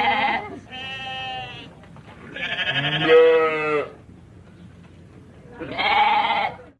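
Sheep bleating repeatedly: one call ending just after the start, then three more wavering bleats with short pauses between, the loudest about three seconds in.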